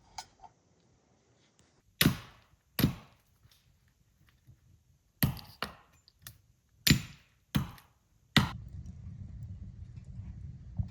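A series of about seven sharp chopping knocks, unevenly spaced, each dying away quickly, followed about eight seconds in by a steady low rumble.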